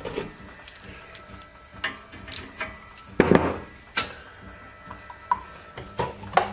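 Scattered metallic clinks and knocks of tools and parts being handled, with a louder clatter about three seconds in.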